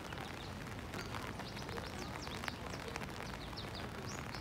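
Small birds chirping, a scattered run of short, high notes over a faint steady background hiss.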